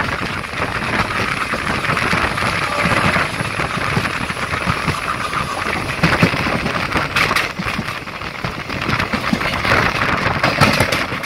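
Running noise of a moving passenger train heard from an open coach door: a steady rush of wheels on the rails and wind. A few sharp clacks come from about two-thirds of the way in, as the wheels run over rail joints or points.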